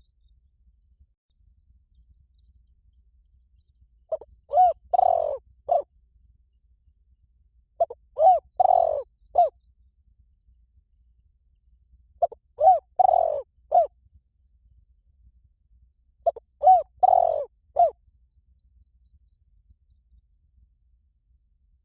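Spotted dove cooing: four phrases about four seconds apart, each a quick run of several short, low coos.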